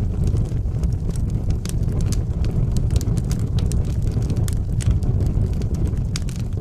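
Wood fire burning in a fireplace: a steady low roar with frequent, irregular sharp crackles and pops.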